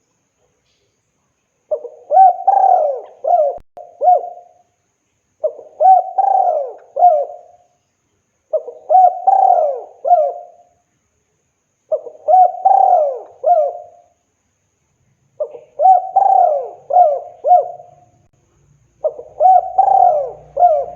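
Spotted dove (tekukur) cooing, giving six repeated phrases of several coos each, roughly one phrase every three and a half seconds. This is a male's advertising song, calling to a female.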